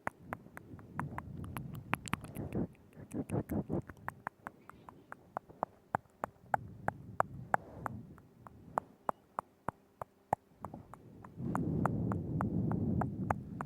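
Close-miked ASMR mouth sounds: a steady run of wet tongue clicks and lip smacks, several a second, with softer low sounds in between. Near the end comes a steadier low sound lasting about two seconds.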